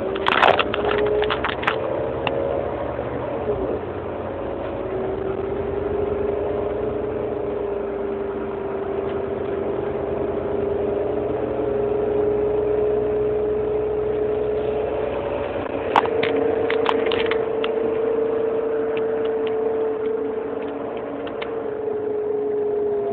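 Heuliez GX 327 city bus engine running, with a steady whine that shifts in pitch during the first few seconds and then holds. A few sharp clicks or rattles come about half a second in and again around sixteen seconds in.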